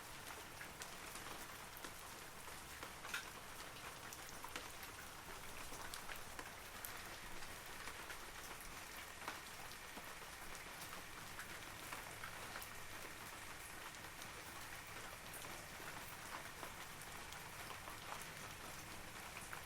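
Steady rain falling on forest trees: an even, soft hiss with scattered sharp ticks of single drops.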